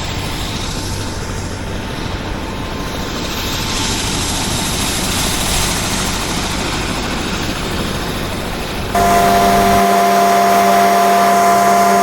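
Helicopter in flight: a steady rushing noise of rotor, engine and air, then about nine seconds in an abrupt change to a louder, steady whine held at several fixed pitches, the turbine whine of the helicopter.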